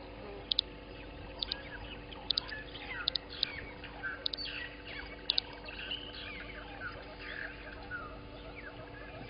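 Birds calling: many short chirps and whistles overlap, with sharp paired clicks now and then. A steady low hum runs underneath.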